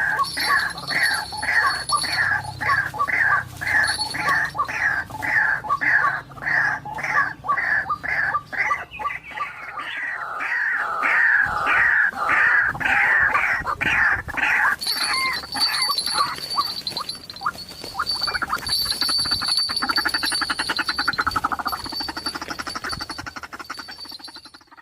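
White-breasted waterhen calling: a long series of repeated falling notes, about two a second. Near the middle the notes come faster and overlap, then turn into a quicker, buzzier run that fades near the end.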